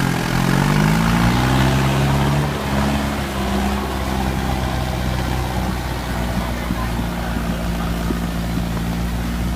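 Yanmar 1185S tractor's four-cylinder turbo diesel engine running under load, pulling a grain cart loaded with 100 sacks in third gear. Its pitch dips and rises over the first couple of seconds, then holds steady.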